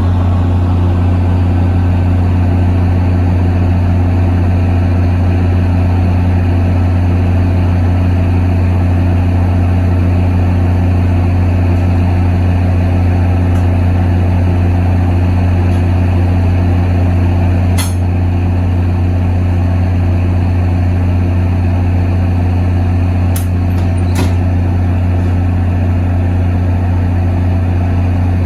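Diesel locomotive engine idling steadily, a constant low hum with even overtones. A few sharp clicks come about two-thirds of the way in and again near the end.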